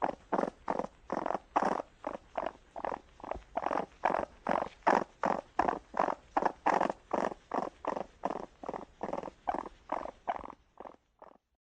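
Raccoon making a long, rhythmic series of short pulsed sounds, about three a second, that grow weaker and stop near the end.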